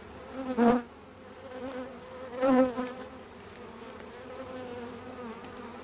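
Honeybees buzzing around an open hive: a steady hum that swells louder twice, about half a second and two and a half seconds in.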